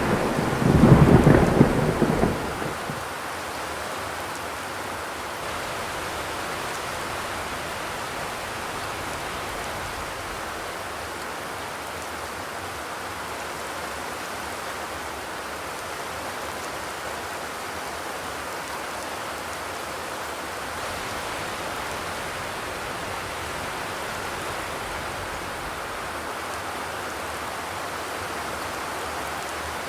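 Steady rain falling on a zinc roof, an even hiss. In the first two or three seconds a loud low rumble sits under it and dies away.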